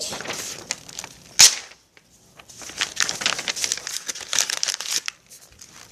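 Paper being crumpled and rustled by hand, a dense run of irregular crinkling crackles, with one sharp snap about a second and a half in.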